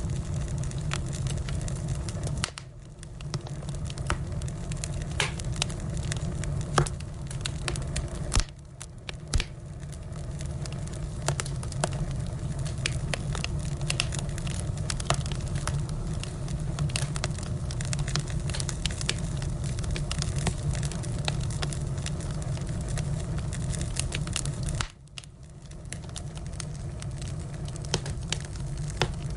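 Firewood burning, crackling and popping with many sharp snaps over a steady low rumble of flame. The sound drops away briefly three times, about two and a half, eight and twenty-five seconds in.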